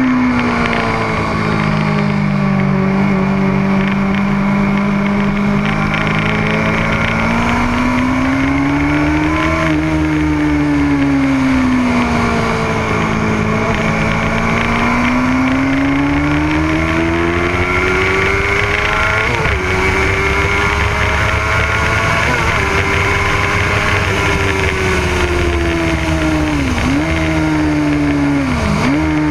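Motorcycle engine at speed on a race track, its pitch climbing slowly under throttle and sagging off again several times, with a few brief sharp dips in pitch near the end, over a steady rush of wind noise.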